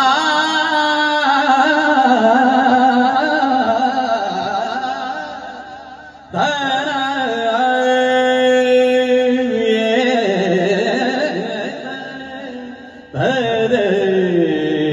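A male kirtankar singing a Marathi devotional kirtan in raga style: three long, drawn-out phrases with wavering, ornamented pitch, each starting strong and fading away.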